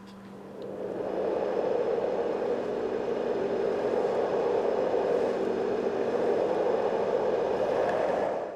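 A white noise machine playing a steady rushing hiss for lulling a baby to sleep, its energy low and mid rather than bright. It fades in over the first second and cuts off near the end.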